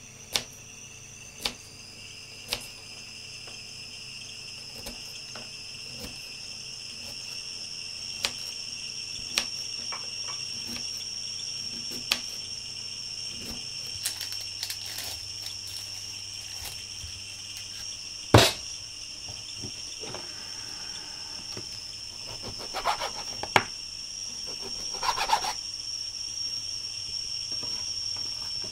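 A steady high-pitched ringing tone, slowly growing louder, over scattered sharp knocks and clicks of things being handled on a table. The loudest knock comes about 18 seconds in, with a few more close together near the end.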